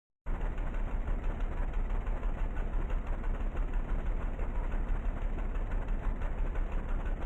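Vehicle engine idling with a heavy low rumble, cutting in abruptly about a quarter second in.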